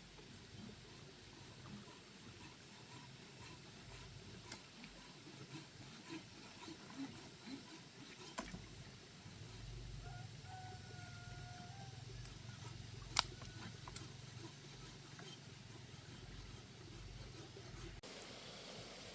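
Quiet ambience with scattered faint clicks and rustles. A short, steady high tone comes about ten seconds in, and a single sharp knock about thirteen seconds in.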